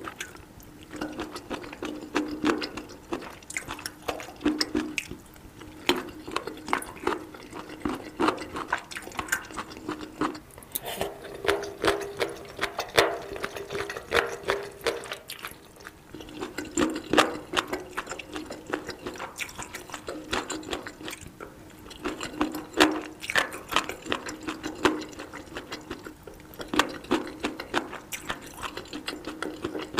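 Close-miked wet, crunchy chewing of spicy boneless chicken feet: a dense run of irregular crackling crunches mixed with moist mouth sounds.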